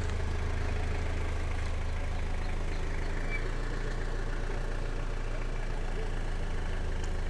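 Old Land Rover Series four-wheel drive's engine idling, a low steady drone with no change in speed.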